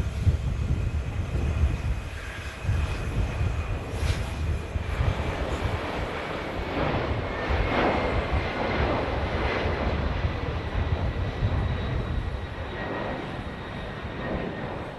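Jet airliner's engines heard from the ground as the plane passes: a steady, noisy rumble with a thin high whine that slowly falls in pitch.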